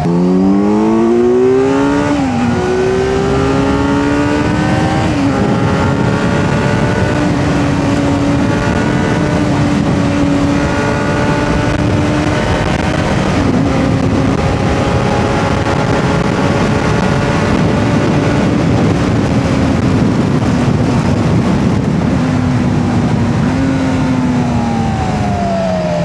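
Kawasaki Z900's inline-four engine accelerating hard, with two quick upshifts in the first five seconds, then holding steady revs at cruising speed, and winding down near the end as the bike slows. Wind noise runs under the engine throughout.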